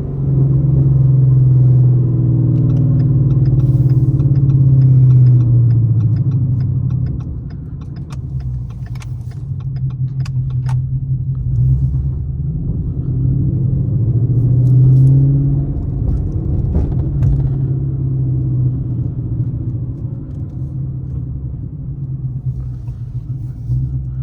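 Ford Mustang GT's V8 engine running while driving, with road noise. The engine note rises and falls with the throttle: loudest in the first several seconds and again about two-thirds of the way through, quieter in between. A few sharp clicks come in the middle.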